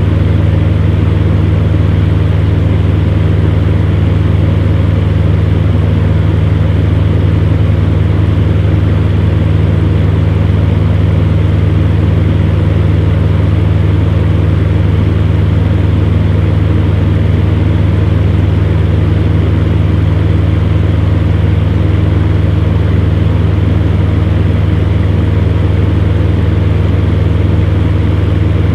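Electric fan heater running: a steady low hum from the fan motor under an even whoosh of blown air, unchanging throughout.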